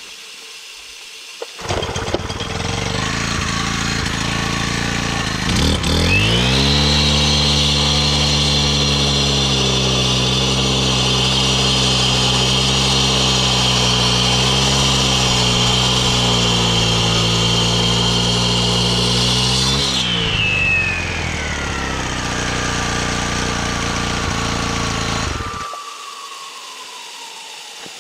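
Makita EK7650H four-stroke concrete saw making a wet cut. It starts up a couple of seconds in, revs up about six seconds in and runs steadily at full speed with a high whine for about fourteen seconds, then slows with a falling whine and drops away sharply shortly before the end.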